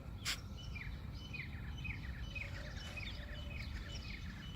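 Birds calling outdoors: a repeated short falling chirp about twice a second, over steady low background noise, with a single click just after the start.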